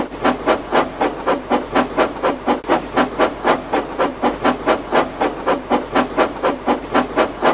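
Steam locomotive chuffing steadily, about four even puffs a second.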